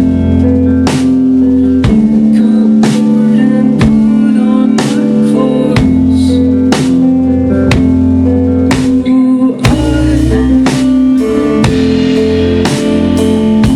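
A rock band playing live and loud: guitars and bass holding sustained chords over a slow drum beat, with a hit about once a second and a brief break about nine and a half seconds in.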